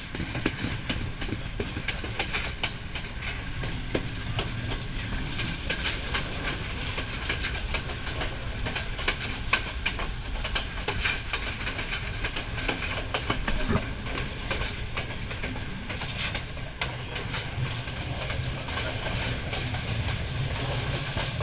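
Passenger train running, heard from an open carriage window: a steady low rumble with wheels clicking and clattering irregularly over the rails.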